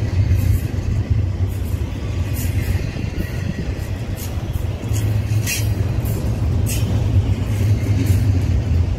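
Double-stack intermodal freight train's loaded well cars rolling past: a steady low rumble of steel wheels on rail, with a few brief sharp clicks, the clearest about halfway through.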